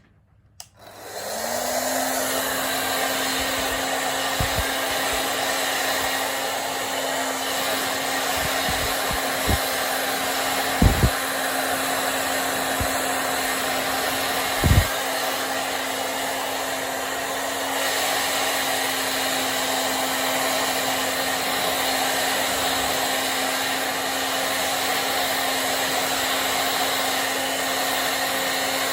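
Hand-held hair dryer switched on, its motor humming up to speed within a second, then blowing steadily. A few brief low thumps come midway.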